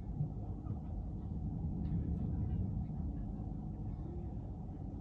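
Steady low rumble of a car's road and engine noise while driving.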